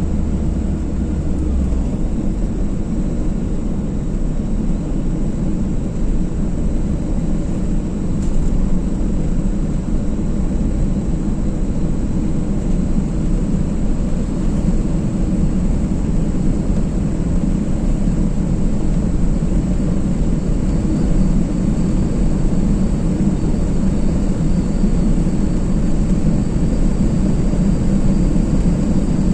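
Car driving at a steady speed: constant low road and engine rumble.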